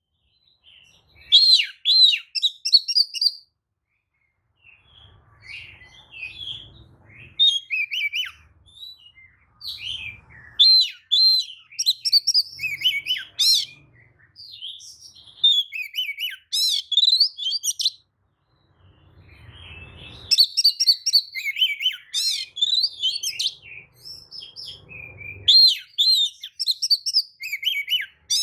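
Oriental magpie-robin singing in bursts of varied whistles, chirps and trills broken by short pauses. It is a lure song (pancingan), used to provoke other male magpie-robins into answering.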